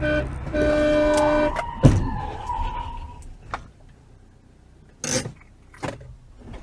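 Car horn honking: a few short beeps, then one long blast, followed about two seconds in by a single sharp bang with a ringing tone after it. A few fainter knocks come later.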